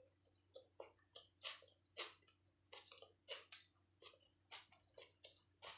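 Faint, close-miked chewing of a mouthful of chicken biryani: short wet mouth clicks and smacks, about three a second.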